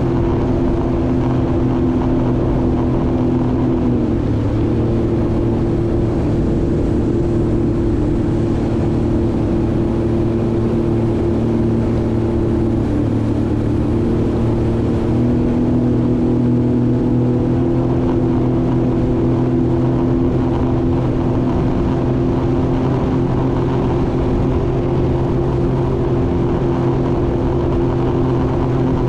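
Jet ski engine running steadily at speed. Its pitch steps down slightly about four seconds in and back up about fifteen seconds in.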